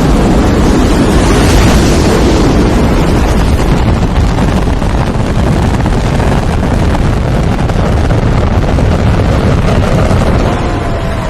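Space Shuttle lifting off: loud steady rumble of its solid rocket boosters and main engines climbing away, easing slightly near the end.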